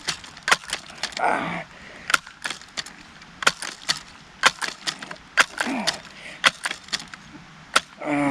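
Remington Air Master 77 multi-pump air rifle being pumped, its pump lever giving sharp clicks, often in pairs, about one to two a second. Three short sounds that fall in pitch come in between.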